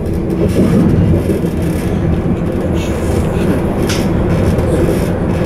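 Stadler Flirt ER160 electric multiple unit running at speed, heard from inside the carriage: a steady rumble of wheels on the track, with a couple of faint ticks about three and four seconds in.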